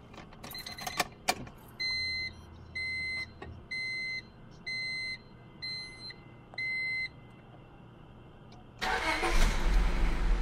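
Ignition clicks, then a car's warning chime beeping six times about a second apart. Near the end, the 2000 Honda Civic's engine starts and runs loudly; this is a cold start after three months of sitting.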